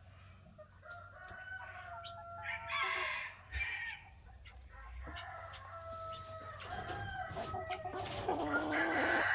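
Several roosters crowing one after another and overlapping, with a few sharp clicks or knocks among them.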